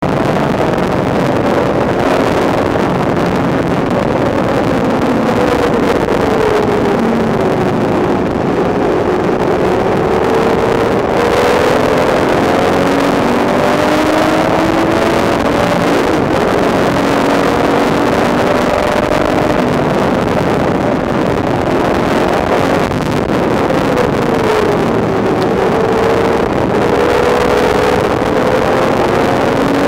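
Porsche 996 GT3 RS's 3.6-litre flat-six heard from inside the cabin on track, its note falling under braking and rising again as it accelerates, over a steady rush of road and wind noise.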